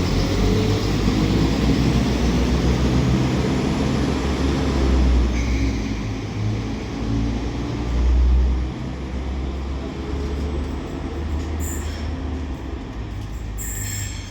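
A Northern Class 195 diesel multiple unit pulling away from the platform, its diesel engines rumbling and rising in pitch as it accelerates.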